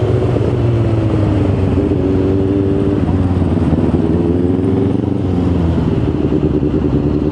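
Motorcycle engine heard from on board while riding in traffic, with wind and road noise behind it. The engine note drops over the first couple of seconds, rises again about halfway through as the bike accelerates, and climbs once more near the end.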